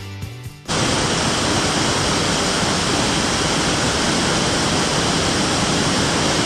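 Background music stops about a second in, giving way to a loud, steady rush of water from a cascade.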